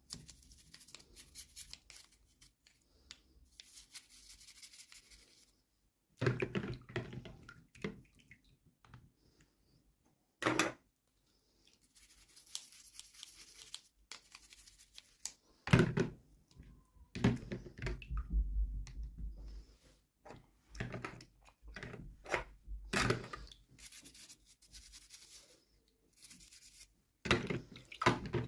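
Hands unboxing small toys: plastic and paper packaging rustling and tearing in stretches, with scattered clicks and knocks of small plastic parts being handled and set down.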